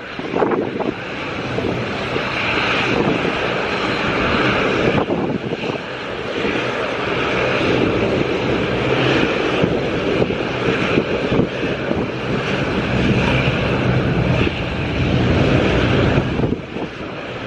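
Jet airliner engines running as a plane passes near the airport, with gusty wind buffeting the microphone.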